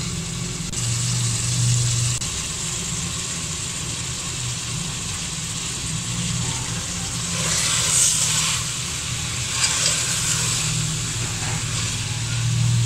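Potatoes and masala sizzling in an aluminium pot over a steady low hum, as chopped green pods are tipped in and stirred with a steel ladle; louder stirring and scraping about eight seconds in, again around ten seconds, and near the end.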